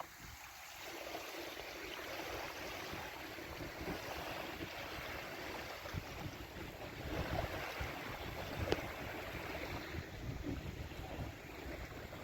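Water rushing and splashing with wind noise as a windsurf board planes over the sea, with a faint knock or two.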